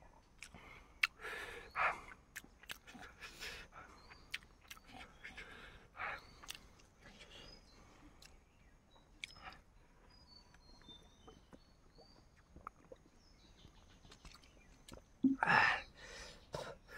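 Close-up chewing of cooked chicken: wet mouth smacks and small crunches with quiet clicks in between. Near the end comes a louder breathy sound. Faint high chirps are heard in the background.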